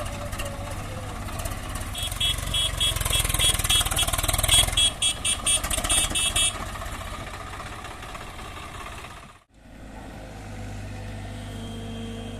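Heavy diesel machinery engine running. From about two seconds in to about six and a half seconds, a rapid high-pitched beeping sounds, about three beeps a second. The sound drops out briefly near the end, then the engine runs on steadily.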